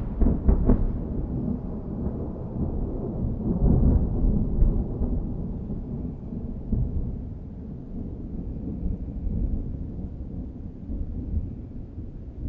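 Thunder rolling: a deep rumble with a few crackles in the first second and again about four seconds in, slowly fading away.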